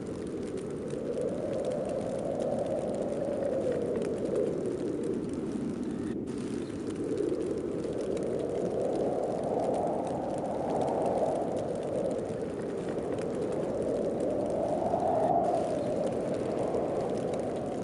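Snowstorm wind blowing in slow gusts, a steady rushing that swells and rises and falls in pitch every several seconds.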